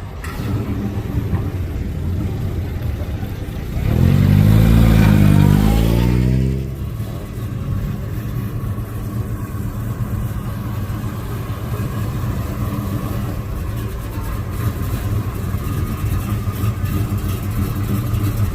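Car engines running, with one car revving and accelerating loudly about four seconds in, its pitch rising and then falling over a couple of seconds, before the steady engine hum carries on.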